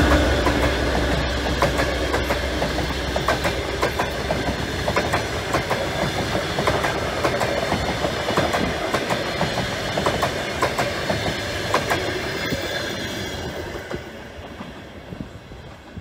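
Russian Railways passenger coaches rolling past: a steady rumble with wheels clicking over the rail joints. It fades away over the last few seconds as the train moves off.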